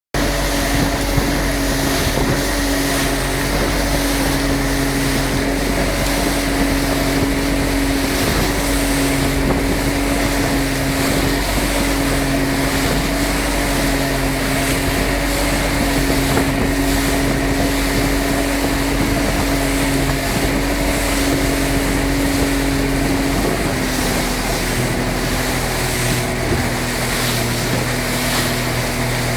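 Motorboat engine running steadily at speed, with wind and water rushing past. The engine's pitch drops slightly near the end.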